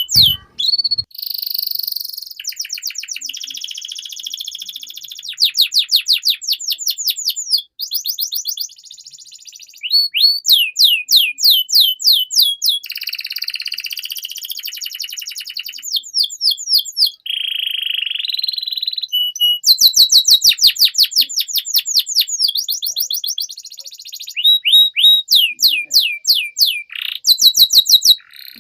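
Domestic canary singing a long, unbroken song. It runs through rapid trills of repeated sweeping notes, several a second, and switches between trills and buzzy rolls every second or two.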